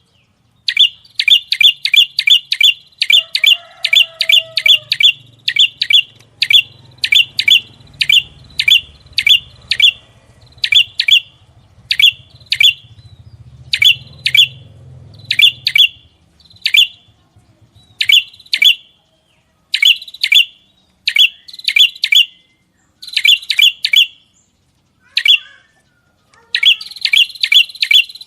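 A small songbird repeats sharp, high, downward-sweeping chirps in quick runs of several notes a second, with short pauses between runs. This is the rapid 'tembakan' (shot) style of song used in masteran recordings.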